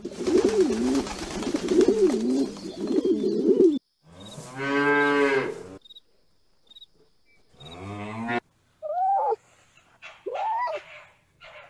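Feral pigeons cooing over a clatter of wing flaps for about four seconds. Then a Highland cow moos twice, a long low call and a shorter falling one. Then a red fox gives three short high calls that rise and fall.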